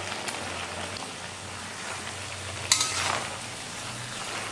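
Malabar spinach and fried potatoes sizzling in oil as they are stirred in the pan. About two and a half seconds in there is a sharp metal clank with a brief ring, a utensil striking the pan.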